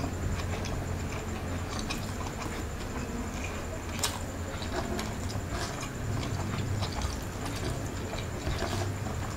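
Close-miked eating sounds of a person chewing fried rice eaten by hand: irregular wet chewing and lip smacks, with a sharper click about four seconds in, over a low steady hum.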